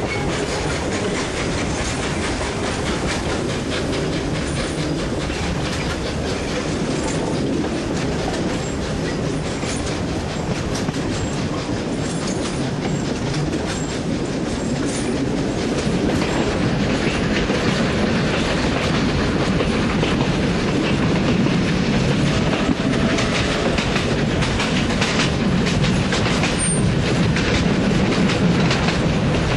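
Steam-hauled passenger train's carriages running along the track, wheels clicking and rumbling over the rails in a steady stream, getting somewhat louder about halfway through.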